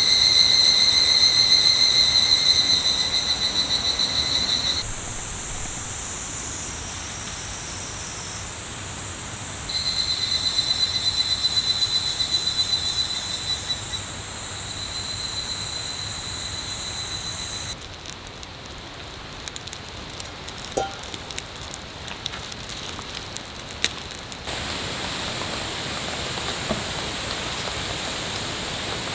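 Steady hiss of heavy rain, with a continuous high-pitched whine in several shots. Partway through, sharp crackling clicks sound over the rain for several seconds.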